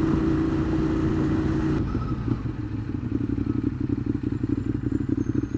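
Ducati Monster 821's L-twin engine running steadily at low speed, then about two seconds in dropping to a lumpy, pulsing idle as the bike slows to let a pedestrian pass.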